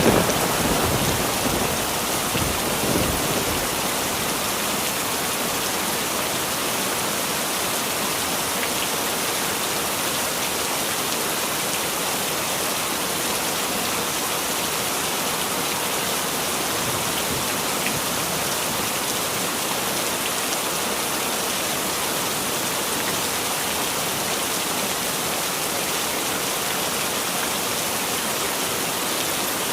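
Heavy rain pouring steadily, a dense even hiss. The last of a thunder rumble fades out in the first few seconds.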